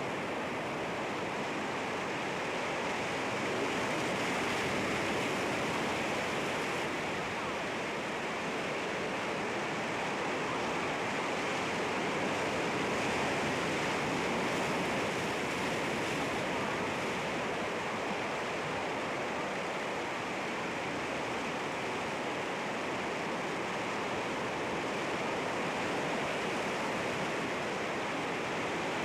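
Sea waves washing against rocks: a steady surf wash that swells gently a couple of times.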